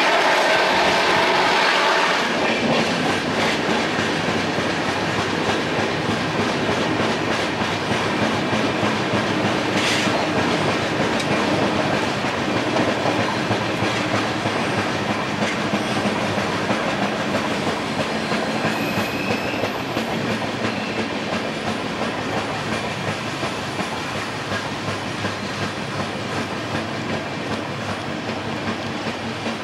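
Express train coaches running on the rails, heard from on board, with wheels clattering over rail joints. The sound is louder for the first two seconds, then gradually quietens as the train slows into the station.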